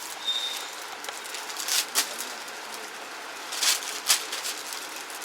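Cloth rustling and brushing close to the microphone in a few short bursts over a steady hiss, with a brief high tone near the start.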